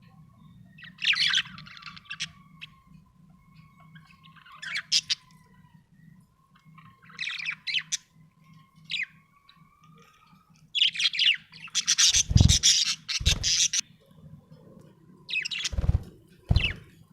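Budgerigar chirping and squawking in short bursts every few seconds, with a longer, louder run of chatter about two-thirds of the way in.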